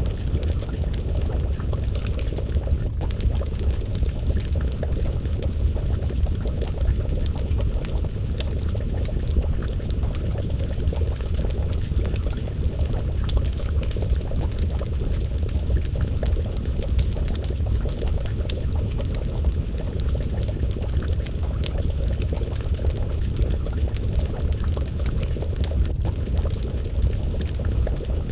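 Wood fire crackling with many small, sharp pops over a steady low rumble, with a pot of stew simmering and bubbling over the flames.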